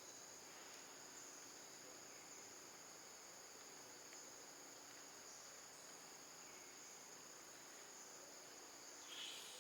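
Faint, steady high-pitched insect chorus in the surrounding forest, with one brief sharper sound near the end.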